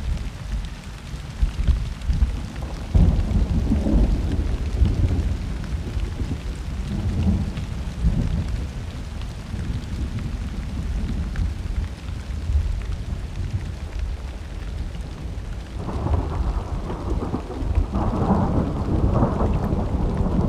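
Rolling thunder over steady rain. The rumble swells about three seconds in, eases, then builds again and grows louder near the end.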